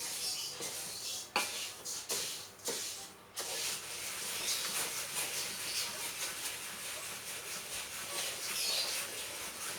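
Bird-feed ingredients dry-roasting in a pan over a low flame: a few quick scraping stirs in the first three seconds or so, then a steady crackling hiss as the pan heats.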